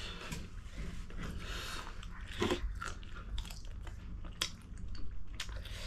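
A person chewing food close to the microphone, with many short, irregular mouth clicks. One click about halfway through is a little louder than the rest.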